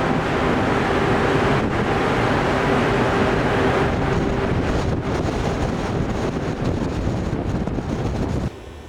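Gale-force wind blowing hard across the microphone aboard a ship at sea, with the sea and a steady hum underneath. The noise drops away suddenly near the end.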